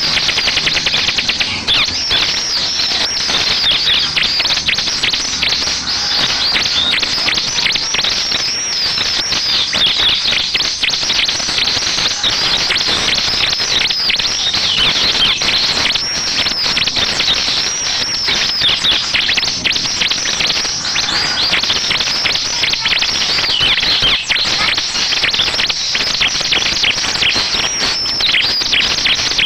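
Bar-winged prinia (ciblek) song played as a lure: a loud, dense, unbroken run of rapid high chirps and trills.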